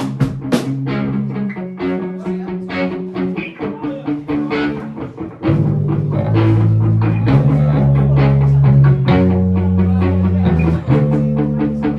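Live band playing a song's instrumental intro: guitar on its own at first, then bass and drums come in about five and a half seconds in and the music gets louder.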